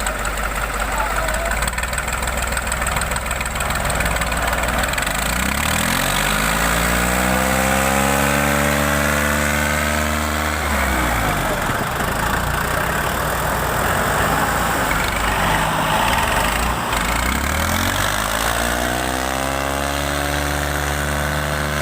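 Tractor diesel engines working under heavy load in a tractor tug-of-war. The engine pitch climbs steadily from about five seconds in, drops suddenly near the middle, then climbs again near the end.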